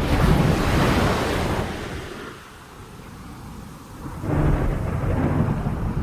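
Drum kit played hard: a dense wash of crashing cymbals over rumbling toms and bass drum. It falls away for about two seconds midway, then comes back in at full force.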